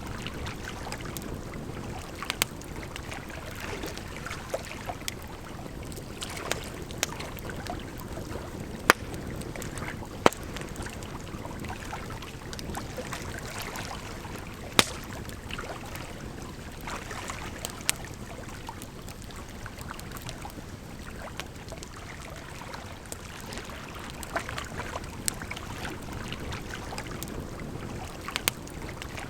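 Campfire crackling, with sharp irregular pops (the loudest about nine, ten and fifteen seconds in), over a steady rush of flowing water.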